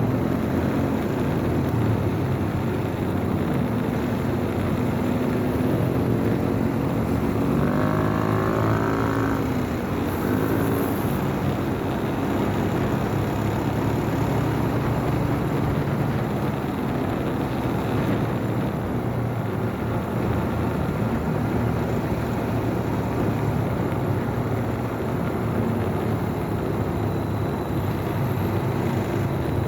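Motorcycle engine running steadily with road and wind noise while riding. About eight seconds in, the revs climb for a couple of seconds before settling back.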